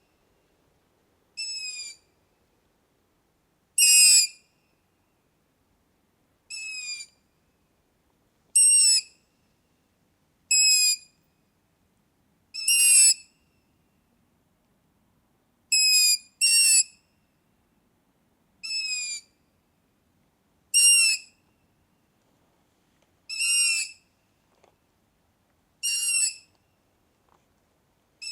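A bird giving short, high whistled calls one at a time, about a dozen in all, each about half a second long and roughly two seconds apart, with silence between.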